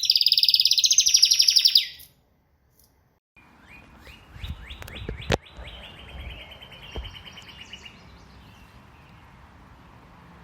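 Songbird singing a loud, fast trill that stops abruptly about two seconds in. After a short silence a different recording begins: a bird repeating a quick series of chirps over background noise, with one sharp click midway, fading out near the end.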